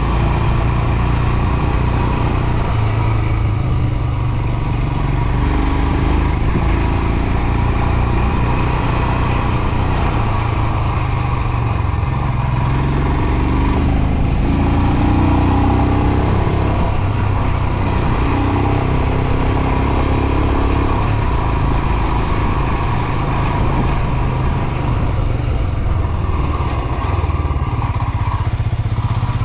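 Royal Enfield Himalayan 411's single-cylinder engine running steadily as the motorcycle is ridden, its note shifting up and down in pitch with the throttle.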